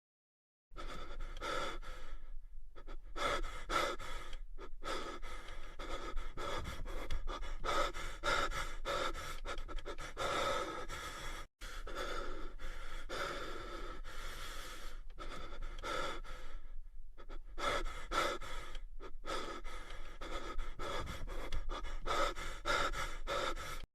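Meme sound effect of heavy, rapid panting breaths, with a brief break about halfway through.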